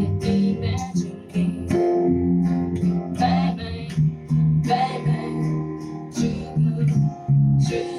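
Acoustic guitar strumming chords in a steady rhythm as song accompaniment.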